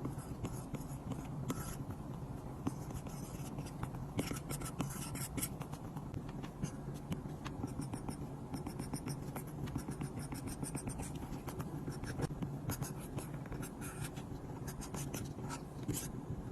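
Apple Pencil on an iPad's glass screen: many light taps of the plastic tip, with short runs of scratchy strokes.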